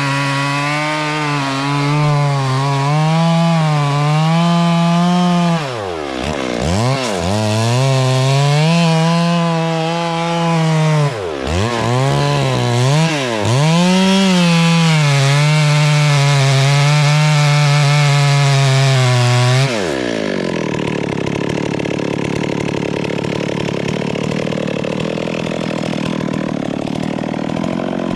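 Chainsaw running at high revs while cutting wood, its pitch sagging sharply and recovering twice, about six and eleven seconds in, as the chain bogs in the cut. About two-thirds of the way through, the steady whine gives way abruptly to a rougher, noisier sound.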